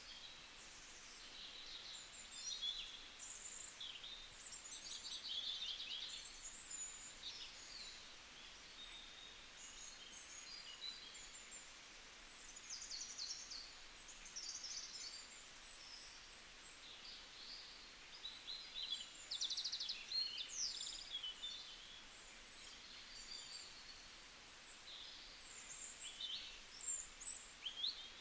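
Several small songbirds chirping and singing together, overlapping short high chirps and quick trills, over a faint steady hiss.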